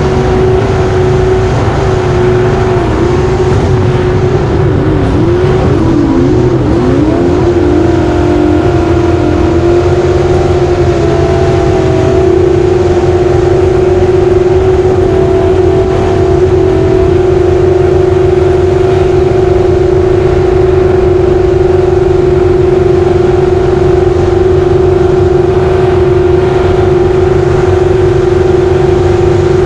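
Racing jet boat engine running hard and loud. Its pitch wavers up and down for a few seconds early on, then holds steady.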